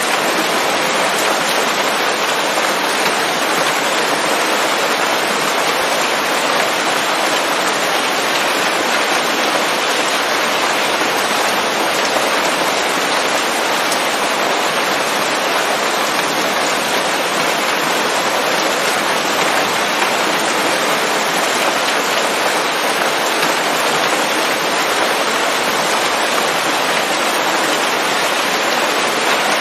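Steady rain falling on leaves: a dense, even hiss of drops.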